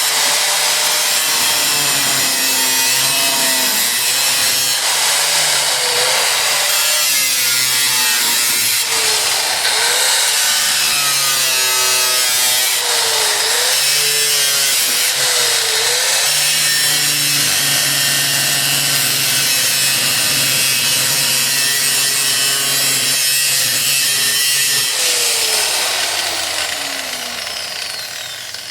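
Power tool cutting through the sheet-metal floor of a 1980 Jeep CJ7, its motor pitch repeatedly dipping under load and recovering. Near the end the tool is let off and winds down with a falling whine.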